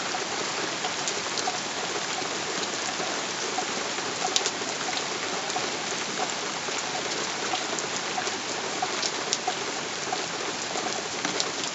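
Heavy rain falling steadily, a dense even hiss with scattered sharper ticks of single drops.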